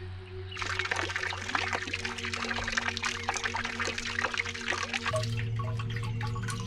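Water dripping and splashing in a dense, quick patter of small drops, starting about half a second in.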